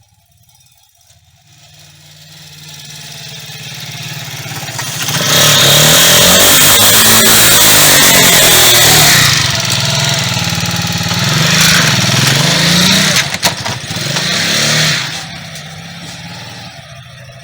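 Motoland Forester KT200 B motorcycle engine growing louder as it comes near, then revved hard for several seconds with its pitch repeatedly rising and falling. It drops back to a quieter steady run near the end.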